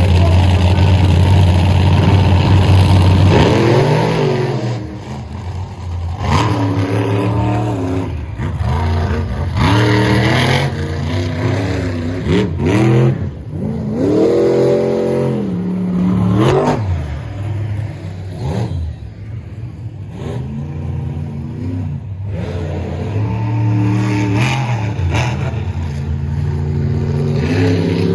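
Monster truck engines revving hard again and again, the pitch sweeping up and falling back every few seconds. A steady, loud engine opens the stretch before the rev swells begin.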